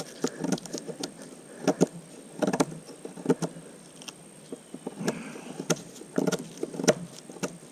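Knife blade chopping and cutting into a wooden pole in irregular sharp knocks and scrapes, notching around it beaver-style to part it instead of batoning.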